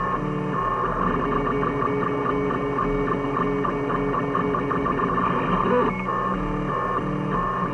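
3D printer stepper motors whining in steady tones that jump between pitches every fraction of a second as the print head moves.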